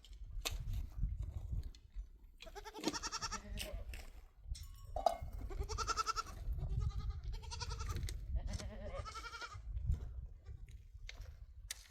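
Four bleats from the flock's livestock, wavering in pitch, about a second each and spaced a second or two apart, with a steady low rumble underneath.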